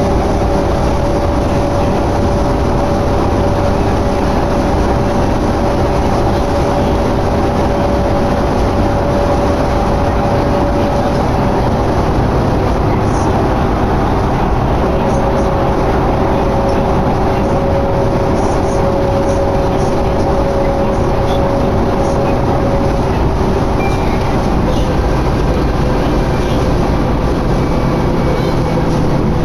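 Cabin noise inside a 2011 New Flyer D60LFR articulated diesel bus on the move: a steady engine drone and road rumble, with a constant hum that shifts a little in pitch now and then.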